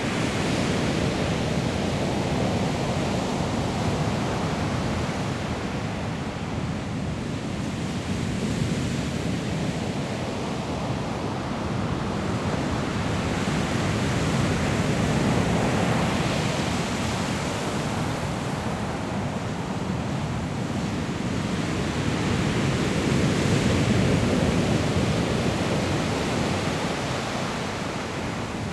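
Sea waves breaking and rolling on a pebble beach: a steady roar of surf that swells and eases every several seconds as each wave comes in, with wind on the microphone.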